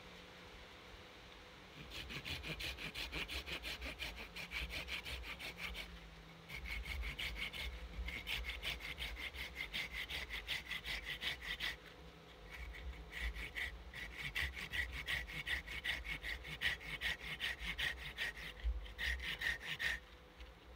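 Hand saw cutting wood in quick back-and-forth strokes, about four a second, in several runs with short pauses between them.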